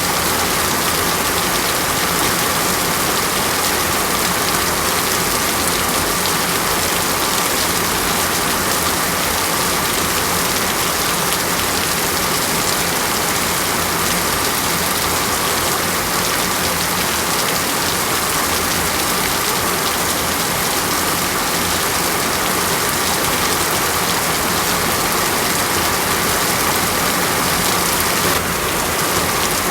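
Steady rain falling, an even hiss that barely changes, with a slight shift in the sound near the end.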